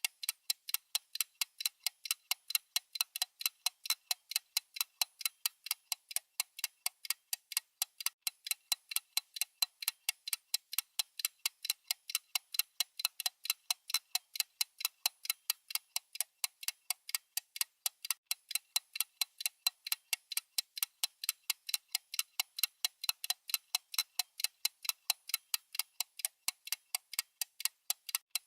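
Countdown timer's clock-like ticking sound effect: an unbroken run of sharp, evenly spaced high ticks, several a second.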